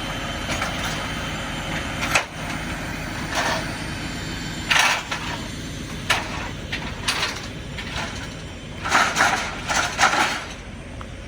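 A truck engine running steadily, with a series of short, sharp bursts of noise from unloading work, about eight in all and bunched near the end.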